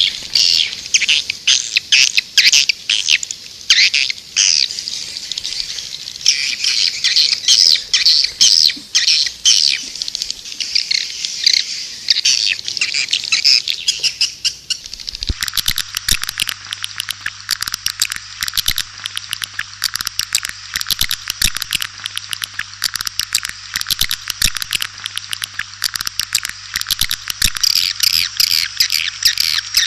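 White-nest swiftlets twittering in a dense stream of rapid chirps, a swiftlet call-sound recording of the kind used as a lure for swiftlet houses. About halfway it changes abruptly to a denser, steadier chirping with a faint low hum beneath.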